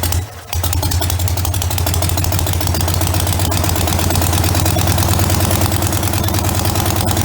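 Douglas 350 flat-twin stationary engine driving a cut-down propeller: it stumbles unevenly for about half a second, then settles into a steady run that grows slightly louder over the next few seconds.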